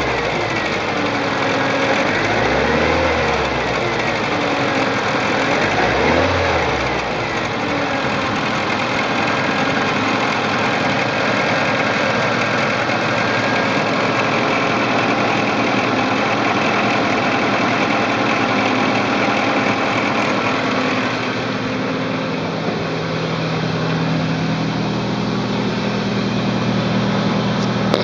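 Toyota AE86's 4A-GEU 1.6-litre twin-cam four-cylinder engine revved briefly twice in the first seven seconds, then idling steadily.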